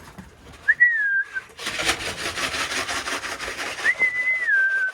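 A person whistling to call racing pigeons in to the loft: two whistled notes, each sliding down in pitch, about a second in and near the end. A loud, steady rattle fills the gap between them.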